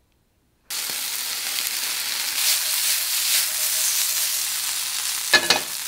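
Chicken strips, green peppers and onions sizzling in a hot frying pan. The sizzle starts suddenly about a second in after a moment of silence, and there is a short sharp sound near the end.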